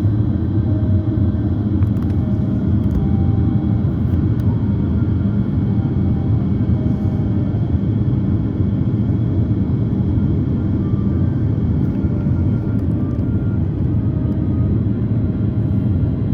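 Steady low cabin rumble inside an Airbus A330-300 airliner: engine and airflow noise heard from a passenger seat, with faint high tones above it.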